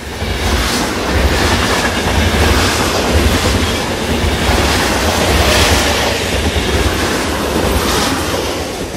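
Train passing: a steady low rumble with the clatter of wheels over the rails, easing off slightly near the end.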